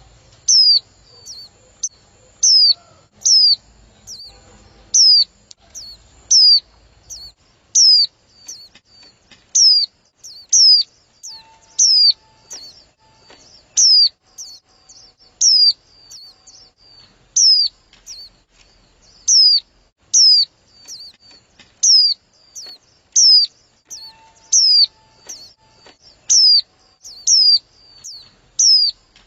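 Female white-eye calling: a single short, high, down-slurred chirp repeated steadily, roughly once a second, the kind of female call used to stir male white-eyes into singing.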